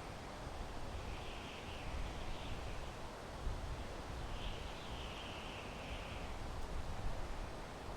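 Wind blowing through pine trees, a steady rushing with a low rumble underneath. Faint bird calls come in about a second in and again around the middle.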